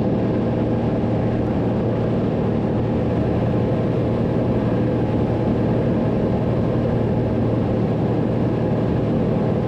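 Cessna 182's single piston engine and propeller droning steadily, heard inside the cabin, with a strong low hum.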